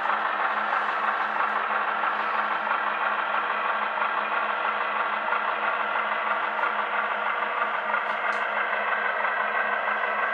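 HO scale model train locomotive running slowly on the layout: a steady mechanical hum with a clattery hiss that keeps an even level throughout.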